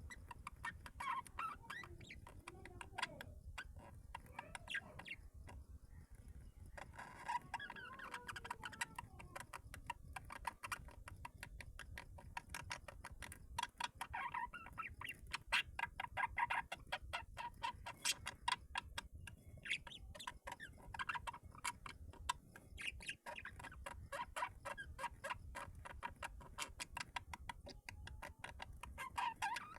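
Chickens clucking and calling, over a fast patter of clicks and ticks.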